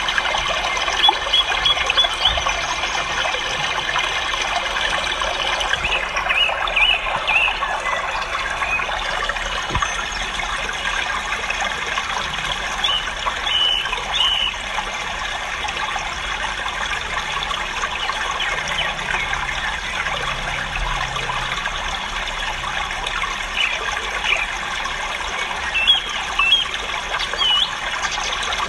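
Many small caged birds chirping at once in a dense, steady chatter, with short high chirps standing out here and there.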